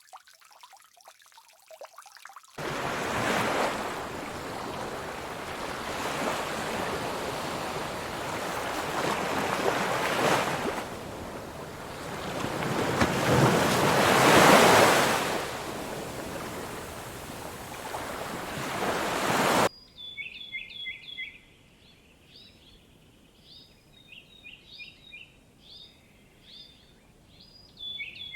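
Surf rushing in, swelling and ebbing in several surges, then cutting off abruptly to small birds chirping in quick repeated calls.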